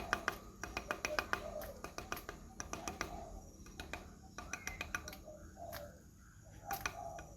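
Pelatuk sampit, a woodpecker, calling: runs of sharp, clicking notes in quick succession, with a few lower call notes mixed in. The notes thin out for a moment about six seconds in.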